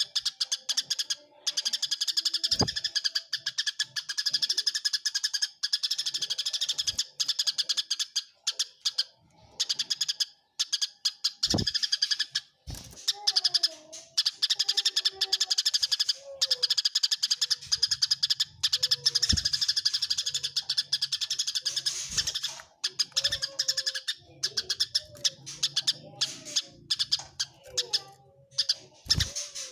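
Eurasian tree sparrows chirping in fast, dense chattering bursts with short breaks between them: the excited calls of sparrows fighting. A few faint dull knocks come now and then.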